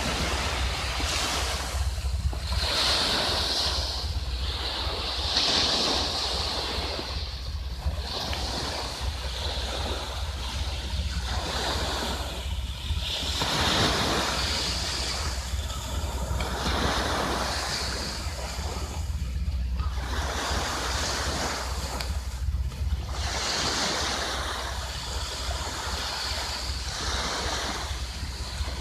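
Sea waves washing onto a beach in repeated surges a few seconds apart, with wind buffeting the microphone as a steady low rumble.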